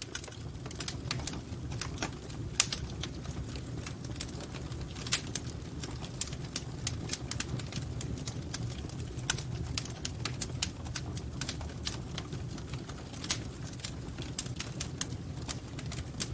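Fireplace wood fire crackling: irregular snaps and pops over a steady low rumble of the flames, with one louder pop about two and a half seconds in.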